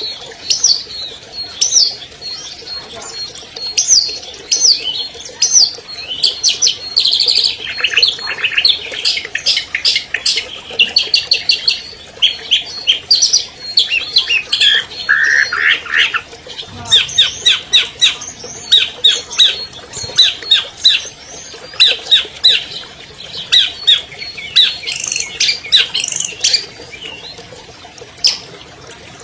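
Long-tailed shrike (cendet) singing a long, varied song packed with mimicked phrases of other birds: quick runs of sharp repeated notes and harsh squawking calls, rattling off several notes a second in the second half.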